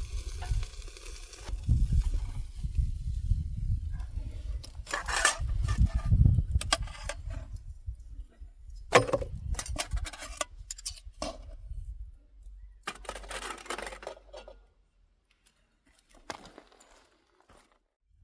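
Scattered clinks and knocks of small hard objects being handled, over a low, uneven rumble that dies away about twelve seconds in; the last few seconds are nearly quiet.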